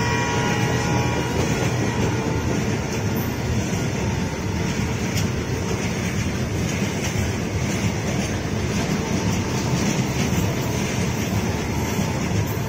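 Long freight train of covered goods wagons passing at speed: a steady rumble and clatter of wagon wheels on the rails.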